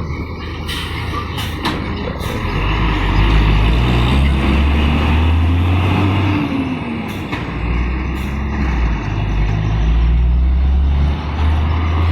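Heavy truck engine labouring up a steep climb, a loud low drone that swells and eases, its pitch rising and then falling around the middle. There are several short sharp sounds, a few in the first two seconds and a couple more near two-thirds through.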